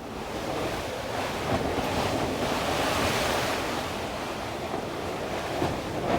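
Storm-force wind gusting over and around a sailboat, a loud rushing noise that swells to a peak about three seconds in and then eases.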